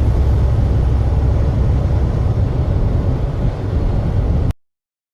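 Truck driving down the road: a steady, loud low rumble of engine and road noise, which cuts off suddenly to silence near the end.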